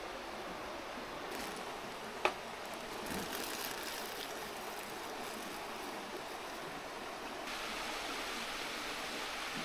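Mountain river murmuring steadily, with one sharp click about two seconds in. The rush of the water grows a little louder and brighter about seven and a half seconds in.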